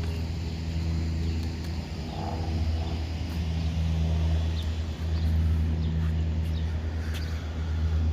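Chevrolet Camaro SS's V8 idling steadily with its mufflers deleted, giving a deep, even rumble that gets a little louder about five seconds in.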